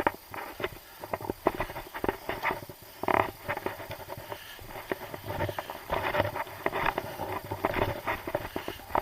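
Irregular clicks, knocks and short scrapes of climbers' boots and gear moving over rock on a mountain ridge.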